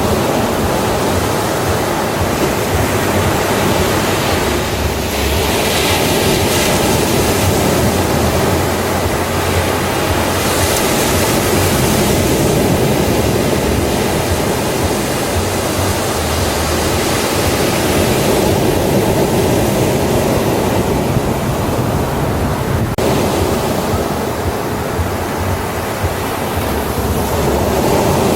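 Ocean surf on a beach: a continuous rush of waves, swelling louder every few seconds as waves break.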